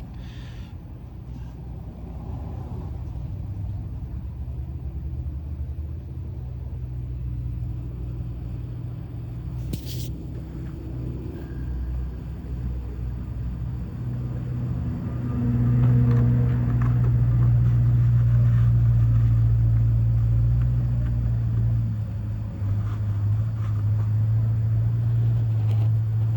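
A motor running with a steady low hum that grows louder about fifteen seconds in, with one short click about ten seconds in.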